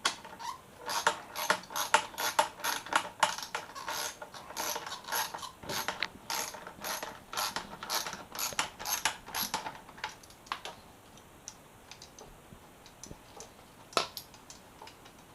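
Socket ratchet clicking in quick runs as 10 mm bolts are undone. The clicking stops about two-thirds of the way through, and there is a single sharp knock near the end.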